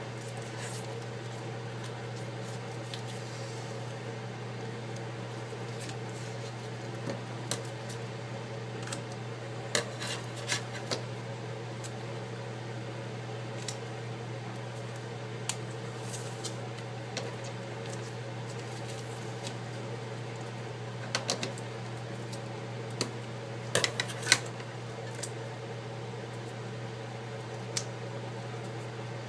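A steady low hum under scattered small clicks and taps, bunched about a third of the way in and again about three quarters through, from handling small parts and double-sided adhesive tape during an iPad screen repair.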